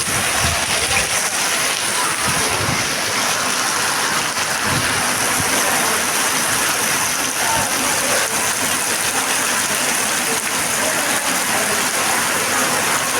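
Rain falling steadily, an even hiss of water with fine patter that stays at the same strength throughout.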